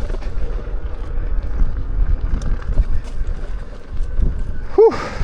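Wind buffeting the microphone and dirt-trail rumble while riding an electric unicycle off-road, with a short high-pitched tone near the end.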